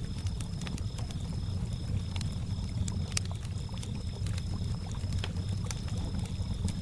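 Campfire crackling with scattered sharp pops, over water lapping with a low rumble, while crickets chirp in a steady high pulsing trill.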